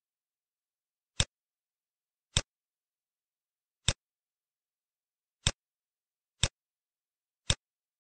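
Computer mouse clicks: six single, sharp clicks at irregular intervals about a second apart, with dead silence between them.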